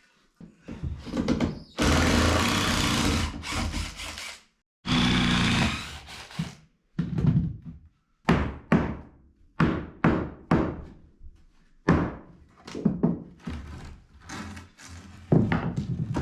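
Wooden concrete form boards being knocked and pried loose from a cured slab: two longer noisy stretches in the first few seconds, then a run of sharp wooden knocks and thunks, one or two a second.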